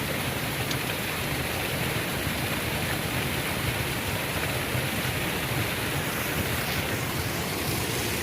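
Waterfall water pouring, a steady, even rush without a break.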